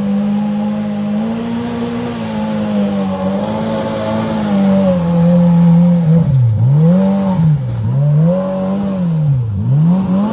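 Polaris RZR Pro R side-by-side's engine at full throttle on a steep hill climb. The revs hold high and steady for about six seconds, then drop and surge back up three or four times as the machine fights for grip.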